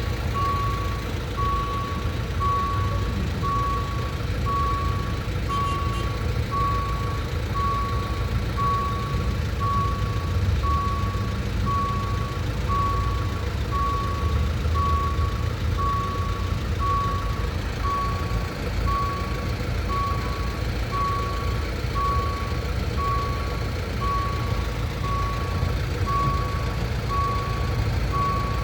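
Low, steady rumble of a passenger train's engine, with an electronic warning beep repeating evenly about once a second.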